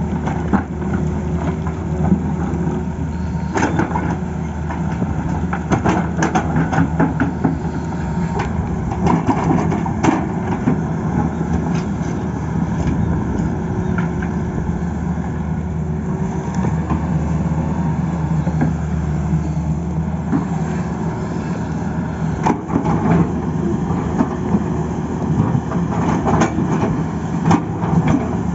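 Tata Hitachi excavator's diesel engine running steadily under load, with irregular knocks and scraping clatter over it.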